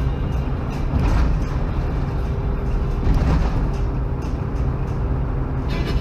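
Steady low rumble of a moving car's engine and tyres on the road, heard from inside the cabin through a dashcam microphone.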